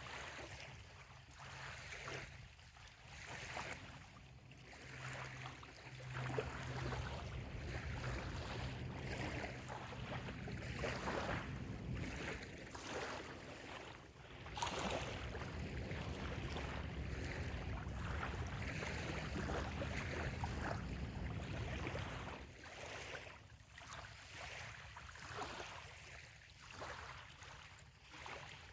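Gentle bay water lapping at a sandy shore in soft repeated washes. A low steady hum, such as a distant engine, sits underneath from about six seconds in until about twenty-two seconds in.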